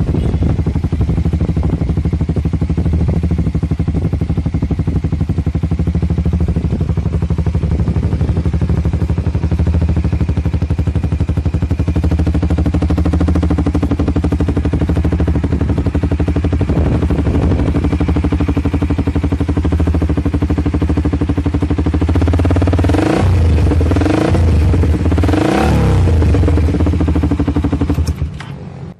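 Kawasaki Ninja motorcycle running through an aftermarket exhaust, idling steadily, then revved in a few quick throttle blips near the end before it cuts off.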